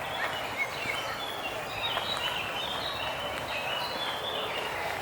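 A bird singing a quick run of short, chirping notes that start about half a second in and stop shortly before the end, over a steady background hiss.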